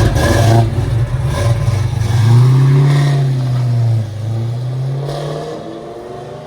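1969 Camaro's 427 V8 with long-tube headers and Flowmaster 40 Series mufflers, under acceleration as the car drives. The exhaust note rises in pitch about two seconds in, dips, and rises again, then fades as the car pulls away after about four seconds.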